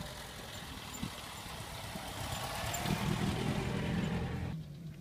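A vintage saloon car's engine running at low speed as the car drives past on a dirt track, getting louder as it comes close, then cutting off suddenly near the end.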